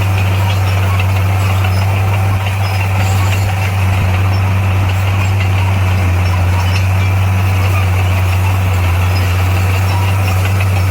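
Heavy earthmoving machine's diesel engine running steadily, a constant low drone.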